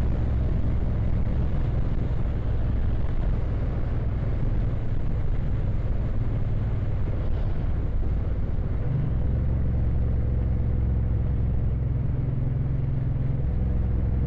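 Motorcycle engine running steadily at road speed with wind and road noise, heard from inside the rider's helmet. The engine note shifts slightly about nine seconds in and again near the end.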